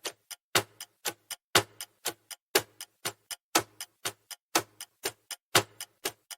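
Countdown timer sound effect ticking like a clock: a sharper tick about once a second with a softer tock between, about two clicks a second.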